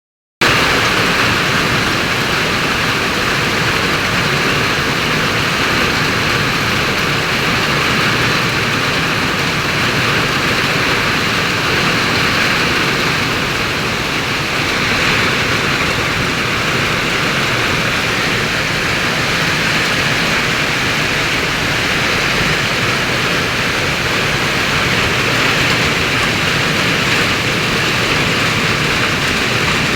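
Heavy rain pouring steadily in a summer storm, an even, continuous hiss of downpour.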